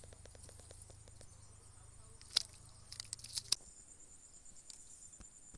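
Insects, crickets, trilling steadily, high-pitched, with a handful of sharp clicks and rustles about two and a half to three and a half seconds in.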